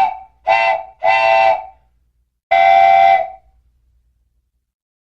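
Train whistle tooting three times: a short toot, then two longer ones, each a chord of steady pitches, the last held for about a second.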